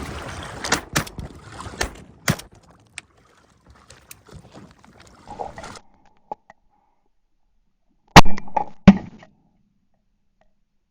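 Two shotgun shots about three-quarters of a second apart, very loud, about eight seconds in. Before them, wind and choppy water with a few sharp knocks against the boat fade away.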